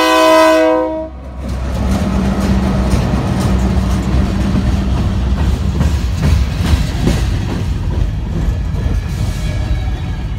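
The horn on a Herzog Railroad Services work train's power car sounds a chord of several notes and cuts off about a second in. Then the train's yellow cars roll past at close range: a steady rumble of wheels on rail with occasional clicks.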